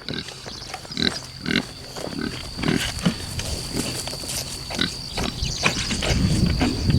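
Pigs grunting in short, irregular grunts.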